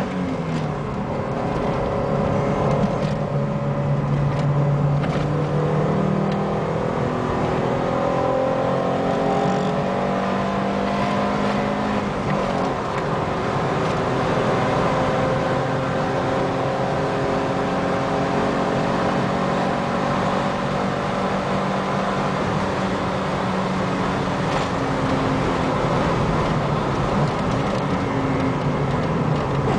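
Alfa Romeo 33 1.7 16v flat-four boxer engine under load on track, heard from inside the cabin with road and wind noise. The engine note climbs steadily, changes pitch about twelve seconds in, then holds high and keeps rising slowly.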